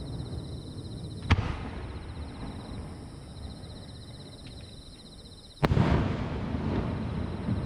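Two fireworks shells bursting about four seconds apart, each a sharp boom, the second louder and followed by a long rumble as it echoes off the mountainsides around the valley.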